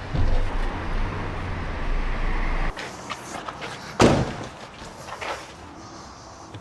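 A low rumble that cuts off suddenly, then one loud slam about four seconds in, typical of a vehicle door being shut.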